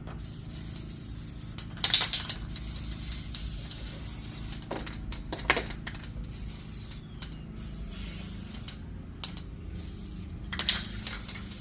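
An aerosol can of cleaner spraying in a few short hissing bursts, about 2 seconds in, around the middle and near the end, over a steady low hum.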